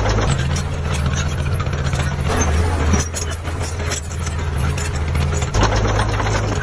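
Heavy diesel engine of construction machinery running, with metallic rattling and clicks over it. The engine note shifts about three seconds in and again near the end.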